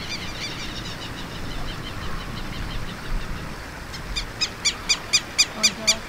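Birds calling: a rapid chatter of small high notes at first, then from about four seconds in a loud run of sharp, evenly repeated call notes, about four a second, growing louder.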